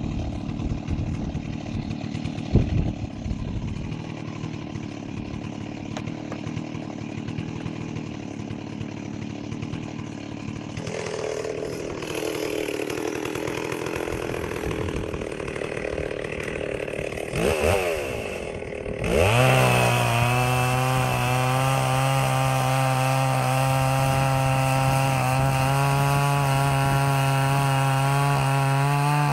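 Two-stroke Stihl 038 Magnum chainsaw running at lower speed, then revving up about two-thirds of the way through and held at a steady high speed while cutting through the tree.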